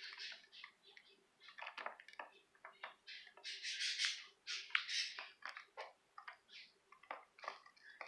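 Budgerigars chirping and chattering in short, irregular high-pitched calls, with a few longer harsh squawks about halfway through.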